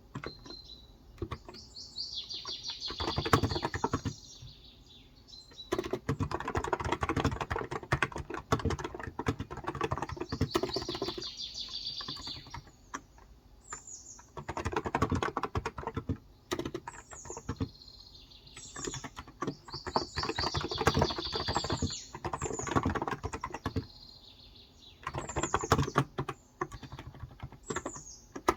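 Typing on a Cox Endeavor electro-capacitive (contactless) tenkeyless keyboard with 35 g switches: runs of quick keystrokes lasting a few seconds each, broken by short pauses. Birds chirp in the background throughout.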